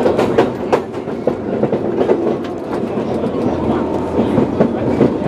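Electric commuter train running on the JR Sakurajima Line, its wheels clicking over rail joints above a steady motor hum.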